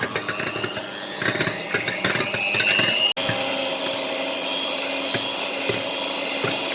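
Electric hand mixer beating raw eggs in a bowl. The motor whine rises in pitch over the first three seconds, cuts out briefly, then runs steadily, with light knocking of the beaters against the bowl.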